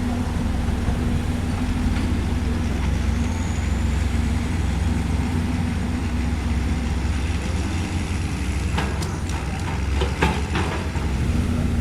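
Diesel engine of heavy earthmoving equipment running steadily, with a few sharp knocks about nine to ten and a half seconds in.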